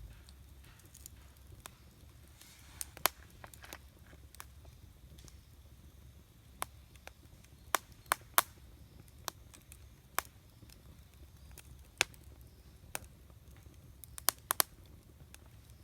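Wood campfire crackling, with sharp pops at irregular intervals and a quick run of three pops near the end, over a steady low rumble.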